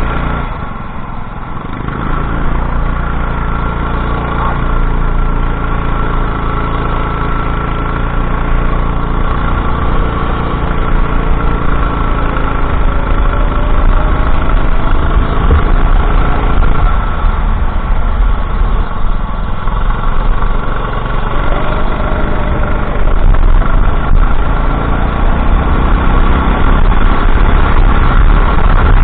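Go-kart engine running on track, its revs rising and falling with the laps' acceleration and braking, louder in the second half.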